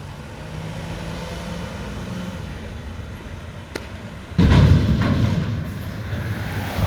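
Mack McNeilus front-loader garbage truck running steadily. About four and a half seconds in there is a sudden loud, heavy bang that dies away over about a second.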